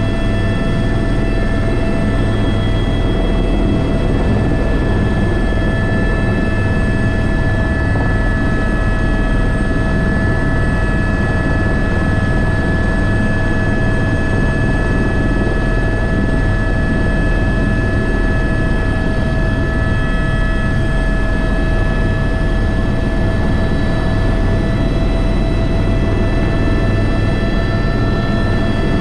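Airbus H125 helicopter in flight: steady high turbine and gearbox whine over the low, even beat of the main rotor, holding constant throughout.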